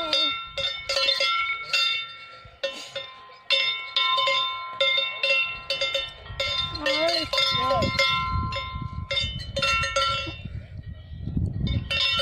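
Several cowbells clanking irregularly, each ringing at its own pitch. Wind rumbles on the microphone in gusts about two-thirds of the way through and near the end.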